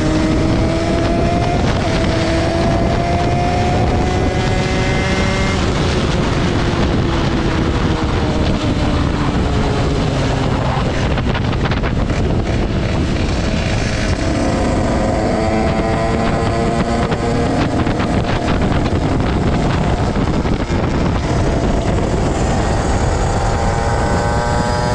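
Derbi Senda's two-stroke engine with a Stage6 88cc cylinder kit running hard under the rider, its pitch rising and falling as the throttle is worked. Wind buffets the microphone throughout.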